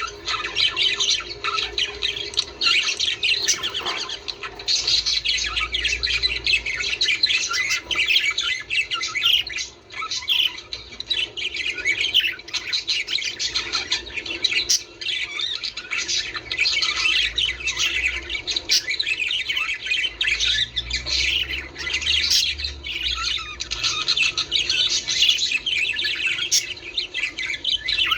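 A flock of budgerigars chattering and warbling without pause, many short squawks and chirps overlapping.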